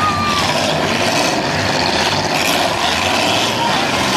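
Several demolition derby cars' engines running and revving together in a loud, steady din, with a brief high squeal near the start.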